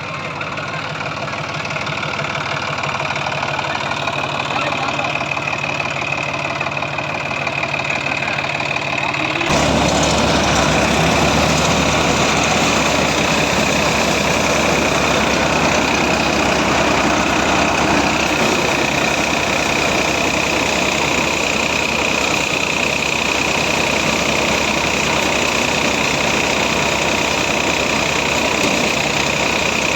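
Diesel engine of a tractor backhoe loader running steadily, with a steady high whine over it. About nine and a half seconds in it suddenly becomes louder and fuller and stays that way.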